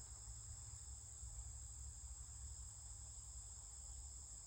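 Faint, steady high-pitched chirring of crickets, unbroken and even throughout, over a low steady rumble.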